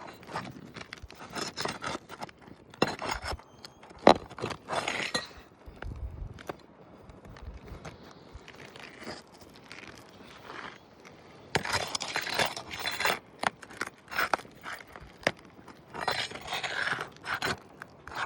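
Gritty scraping and crunching on 3-tab asphalt roof shingles, in irregular bursts with a sharp crack about four seconds in; the old shingles are brittle, breaking and crumbling as they are worked loose.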